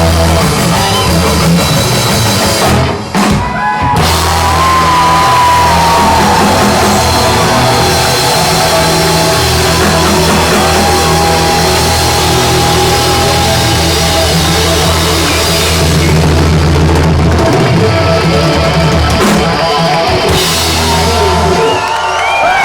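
Hard rock band playing live, drum kit, bass and electric lead guitar in a loud instrumental passage with no vocals, breaking off briefly about three seconds in. The band stops near the end, and the crowd starts cheering.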